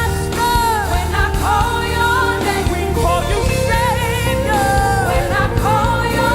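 Live gospel worship music: a lead singer holding wavering, vibrato-laden lines over a full band with bass.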